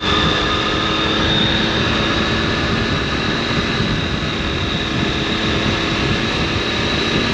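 Triumph Tiger 800's three-cylinder engine and exhaust running at a steady pace under way, a continuous even drone with a thin high whine over it.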